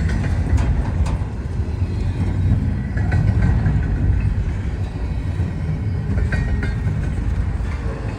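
Long freight train's cars rolling past on the nearest track: a steady low rumble of wheels on rail, with scattered clicks and faint squeaks from the wheels.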